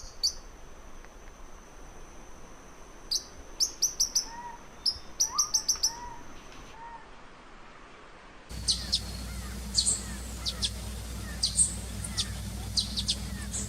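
Forest birds singing: a thin high whistle held for several seconds, with bursts of quick high chirps and a few lower sliding notes from another bird. About eight and a half seconds in the sound cuts to a different recording, with a low steady rumble under repeated sharp high chirps.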